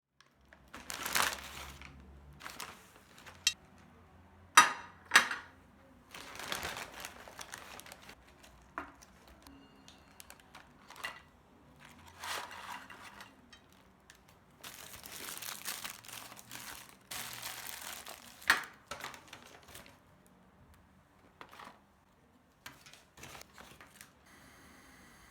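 Paper or plastic wrapping being crinkled and rustled in bursts of a second or more, with several sharp clicks and taps in between.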